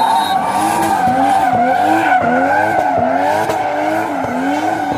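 Drift car sliding with its tyres squealing in one long steady screech, while its engine revs climb and drop back over and over, about one and a half times a second, as the driver works the throttle through the drift.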